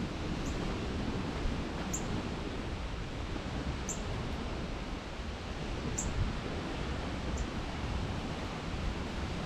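Steady rushing outdoor noise, heaviest in the low end, with a small songbird giving a short, very high chip note five times, about once every one and a half to two seconds.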